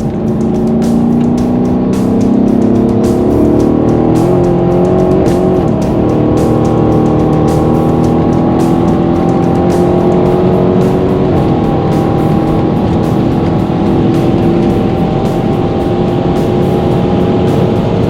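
Tuned twin-turbocharged V8 of a Mercedes-AMG CLS63 pulling hard at high speed. The engine note climbs slowly and steadily in pitch, with a break in the note about four seconds in and a step upward at about eleven seconds.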